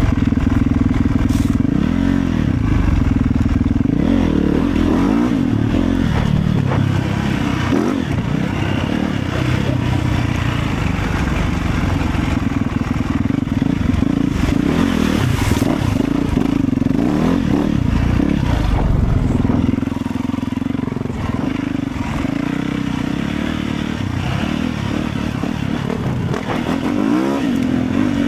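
Motorcycle engine running under way, its revs rising and falling, a little quieter about two-thirds of the way through.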